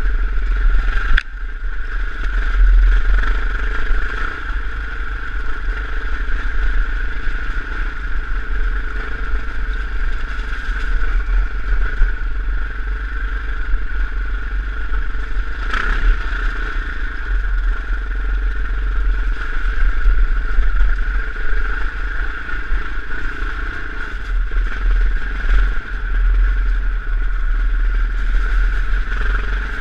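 KTM dirt bike engine running at a fairly steady speed on a rough gravel track, under a heavy low rumble, with rattling from the bike. Two sharp knocks stand out, about a second in and around the middle.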